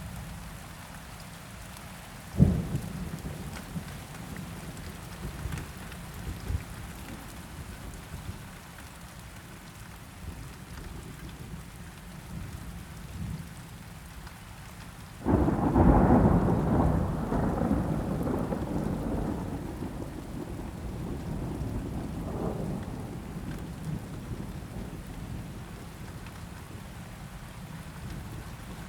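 Steady rain with thunder. A sharp thunderclap comes about two seconds in. About halfway, a loud rumble breaks out suddenly and slowly rolls away.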